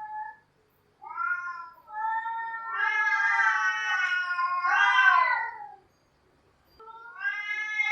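Cats yowling: a couple of short calls, then long drawn-out yowls that overlap for a few seconds. After a pause of about a second, another yowl rises near the end.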